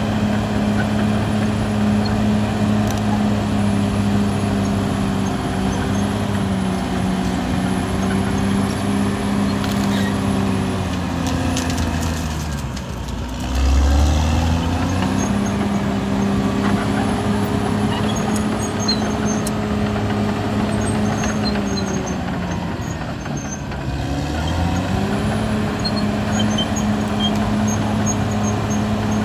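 Caterpillar D6R XL bulldozer's diesel engine running steadily. Twice, about halfway through and again about three-quarters through, its pitch sinks and then climbs back. A loud low rumble comes as it bottoms out the first time.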